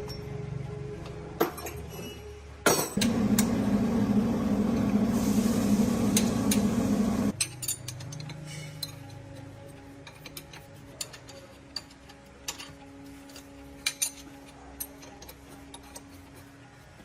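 A machine or power tool runs loudly for about four seconds and cuts off abruptly, followed by scattered sharp metallic clinks and taps of tools and parts.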